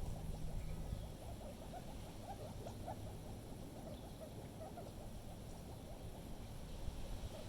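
Wind rumbling on the microphone, strongest in the first second, with many small quick ticks and taps scattered over it.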